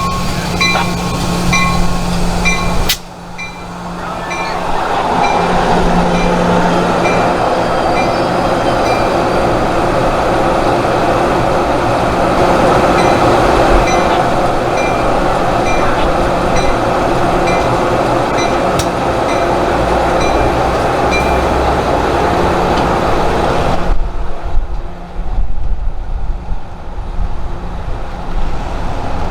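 A train rumbling past with a bell ringing steadily, about two strokes a second, over a steady engine hum. Near the end the rumble gives way to lighter, uneven traffic-like noise.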